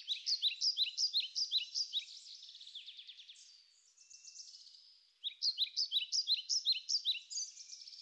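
A songbird singing two phrases of rapid, repeated downward-slurred notes, one at the start and one about five seconds in, with softer trilling between.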